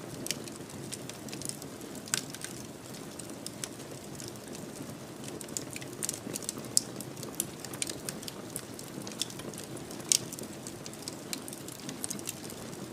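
Wood fire burning in a fireplace: a steady low rush of flames with frequent irregular crackles and pops, a few sharper snaps standing out.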